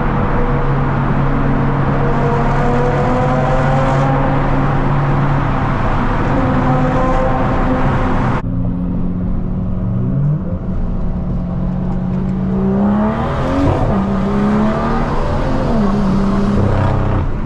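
BMW 335i's turbocharged inline-six engine running on the move, holding a steady note at first. In the second half it revs up and drops back a couple of times, as with acceleration and gear changes.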